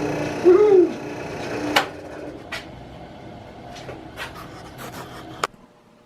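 Scattered sharp clicks and light knocks of hands handling hardware, about six of them spread over a few seconds, after a steady hum fades out about two seconds in.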